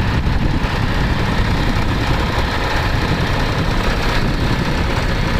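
Tractor engine running steadily, a heavy, even rumble.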